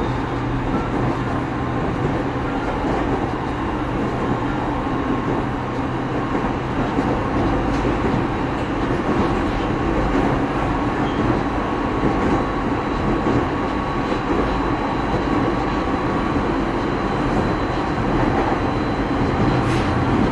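Interior running noise of a JR 209-series electric train, recorded inside motor car MoHa 209-2151: a steady rumble of wheels on rail with a hum from the running gear, holding level while the train runs between stations.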